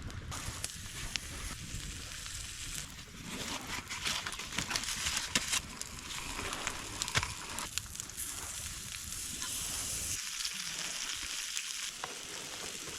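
Food sizzling on a hot griddle: a steady frying hiss with scattered sharp pops.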